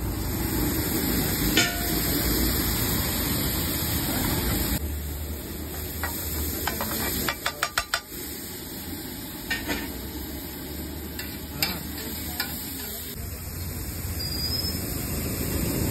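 Chopped vegetables sizzling on a large flat griddle (tawa) while they are stirred and scraped with a metal spatula and ladle. Scattered metal clicks, with a quick run of five or six knocks about seven seconds in.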